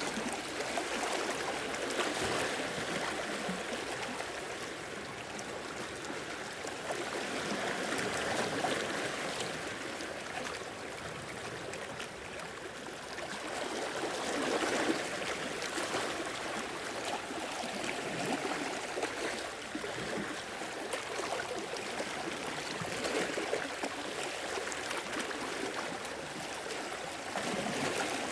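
Sea waves washing in and drawing back, the rushing water swelling and easing about every five to six seconds.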